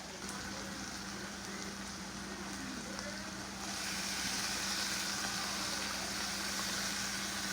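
Chicken, broccoli and pasta sizzling in a hot pan as soy sauce is added; the sizzle gets louder and hissier about three and a half seconds in.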